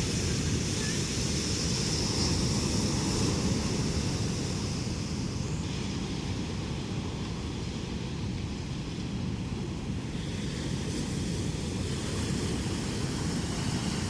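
Ocean surf breaking heavily, a steady rumbling wash with wind buffeting the microphone.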